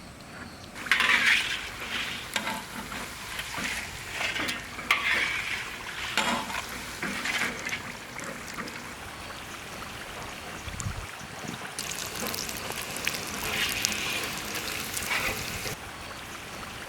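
Spring rolls sizzling as they fry in hot oil, with a utensil stirring and scraping in the pan. The sizzle comes up about a second in.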